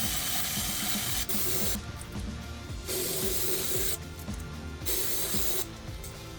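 Aerosol spray can hissing in three bursts of about a second each, over background music.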